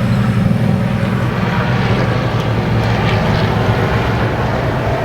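Race truck engines running on the track, a steady low drone.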